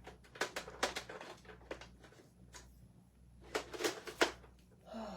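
Irregular light clicks and taps of small wooden cutout pieces being handled and set down on a work table, with a few clustered knocks near the end.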